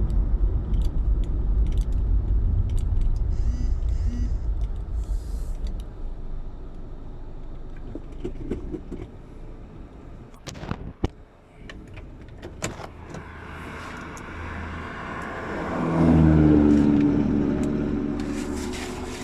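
Car sounds: a low rumble that fades away over the first several seconds, a few sharp clicks and knocks around the middle, then a pitched engine tone swelling up about three quarters of the way in.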